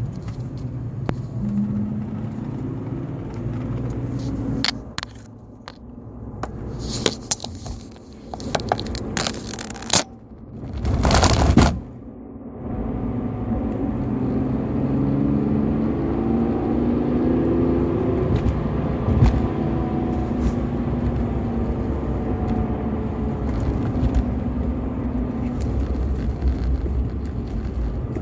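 BMW E46 320i's M52TU 2.0-litre inline-six engine running on its stock exhaust. Partway through, the engine sound drops behind a string of clicks and crackles and a loud rush of noise lasting about a second, after which it runs steadily again.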